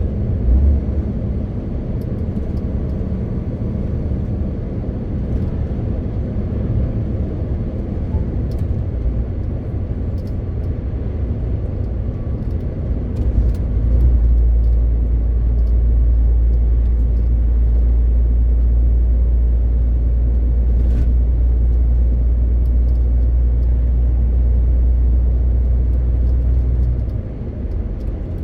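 MAN TGX 18.520 truck's straight-six diesel running on the road, a steady low drone with tyre and road noise. About halfway through the low rumble swells and holds, then drops back shortly before the end.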